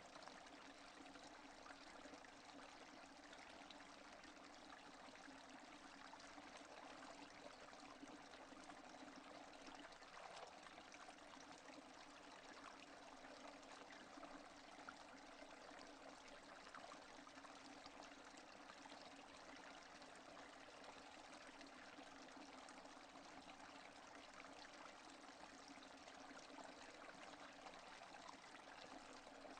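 Steady, faint rain falling, with no thunder.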